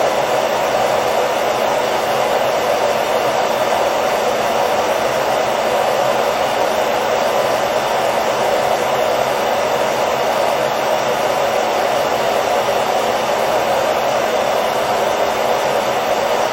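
Hair dryer running steadily, a constant airy whir with a faint motor hum underneath, used as white noise for lulling a baby to sleep.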